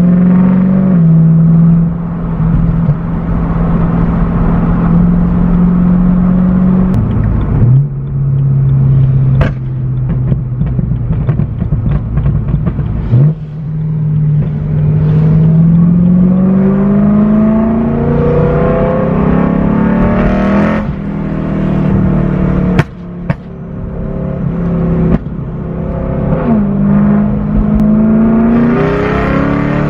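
BMW M3's S65 V8 running through an aftermarket Valvetronic exhaust at a steady drone. Twice its pitch drops suddenly and then climbs again as the car pulls away, with a few sharp clicks between.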